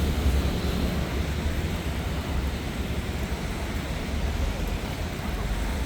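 Steady city street noise on a wet day: traffic going by, with a deep, uneven rumble underneath.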